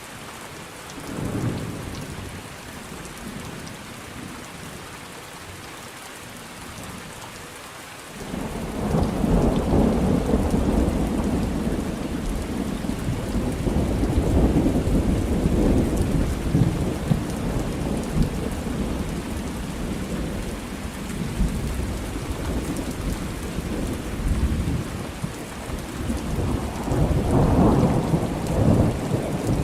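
Thunderstorm: steady rain falling, with a long rolling rumble of thunder that breaks in about eight seconds in and swells again near the end.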